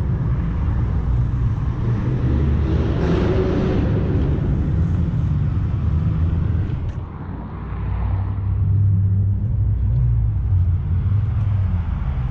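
Car engines and exhausts rumbling as cars pull away, swelling louder about three seconds in and again around eight to nine seconds.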